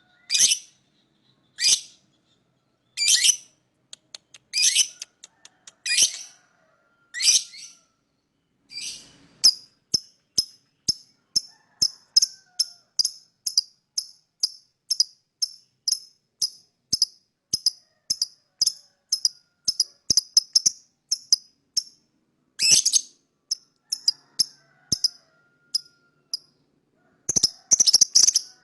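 Lovebird giving sharp, high chirps, about one every second and a half at first. After about nine seconds it switches to a long run of quick short chirps, about two a second, which turns into a fast, dense chatter near the end.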